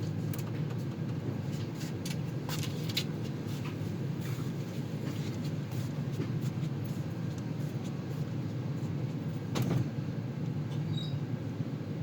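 Moving train heard from inside the coach: a steady low rumble with scattered clicks and rattles, and one louder knock near the end.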